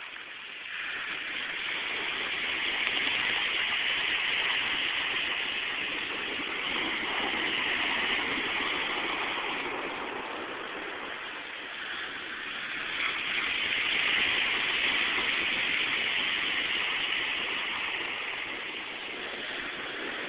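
Ocean surf breaking on a beach: a continuous rushing wash of waves that swells louder and eases back a few times, with a new surge roughly every five or six seconds.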